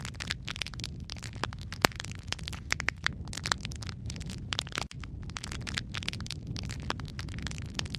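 Wood fire of burning logs in a fireplace crackling, with many irregular sharp pops and snaps over a steady low rumble of flame. The sound cuts out for a split second near the middle.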